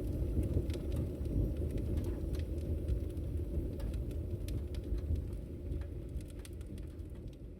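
Firewood burning in a fireplace: a steady low rumble of the fire with scattered sharp crackles and pops, gradually fading out near the end.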